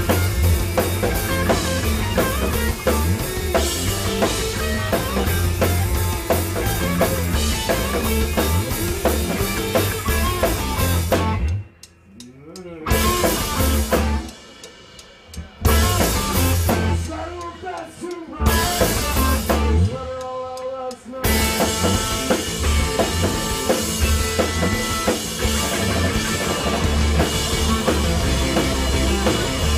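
Rock band playing loud: drum kit, guitar and bass. Through the middle the band stops dead several times, each time for about a second, and crashes back in between the stops.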